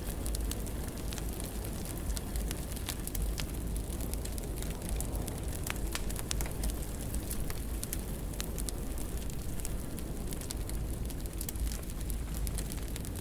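Wood fire burning in a fireplace: a steady low rumble and hiss of the flames with frequent sharp, irregular crackles and pops.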